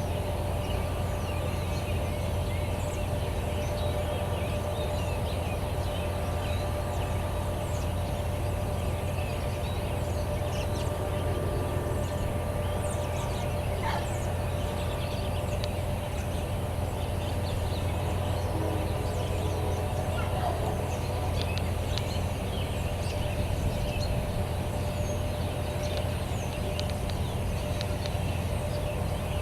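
Birds calling, with many short scattered chirps over a steady low hum.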